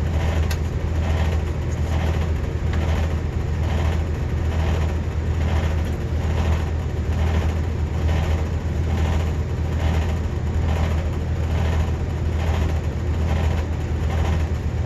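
Walk-in freezer's condensing unit running steadily with its newly replaced compressor and condenser fan: a strong low hum with a regular pulsing a little under twice a second.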